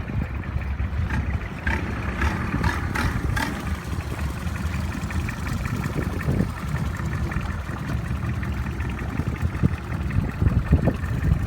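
Long-tail boat engine running at idle with a steady low rumble, with wind buffeting the microphone.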